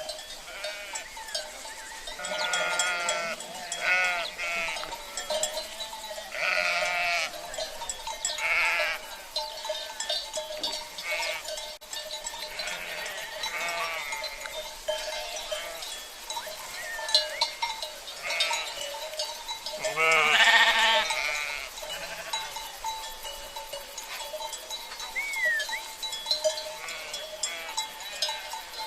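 Sheep bleating again and again, several calls overlapping, with the loudest bleat about twenty seconds in, over the steady ringing of cowbells.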